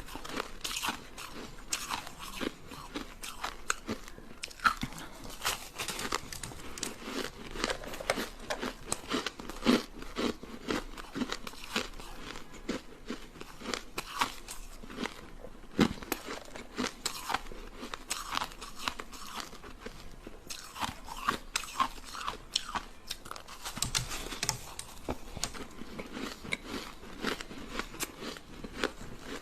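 Sticks of ice being bitten and chewed, close up: a steady run of sharp, irregular cracks and crunches, several a second.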